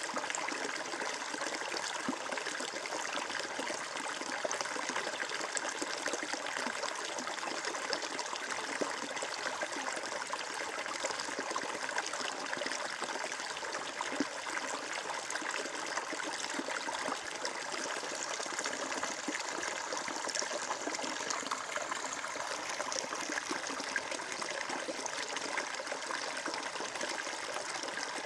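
Flowing water running steadily over stones, a continuous even trickling and splashing.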